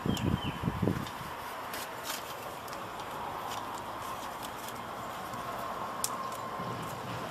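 A few low knocks and bumps in the first second, then scattered light clicks over a steady hiss: hands handling computer case parts and a fan.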